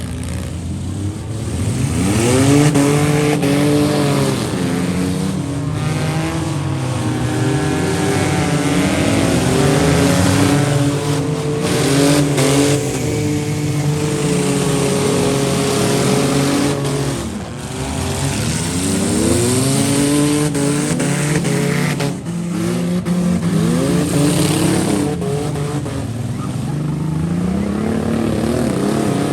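Stock vans, trucks and SUVs in a demolition derby, their engines revving hard again and again, the pitch climbing and dropping as they accelerate and back off.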